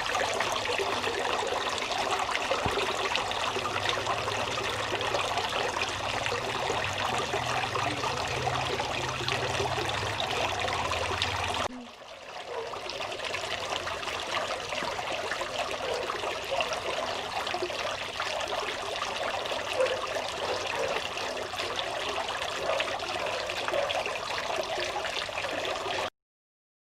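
Water trickling and splashing steadily from a small cement waterfall. It dips briefly about twelve seconds in, carries on, then cuts off abruptly near the end.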